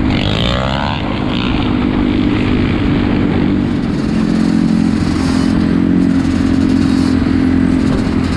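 ATV (four-wheeler) engines running and revving, with a brief rising rev near the start.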